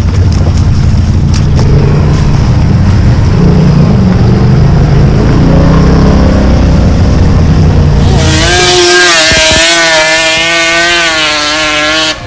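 Off-road vehicle engine running hard under heavy wind and rumble noise on the microphone. About eight seconds in, a held note that wobbles in pitch takes over.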